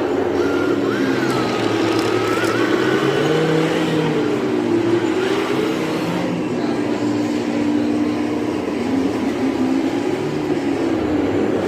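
Radio-controlled model vehicles running, several motor tones overlapping and gliding up and down in pitch as the throttle changes.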